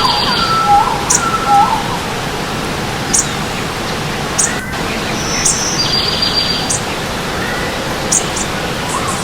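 Steady rush of stream water running, with several birds calling over it: short high chirps every second or so, a buzzy trill about a second in and again about six seconds in, and lower whistled notes in the first two seconds and again near the end.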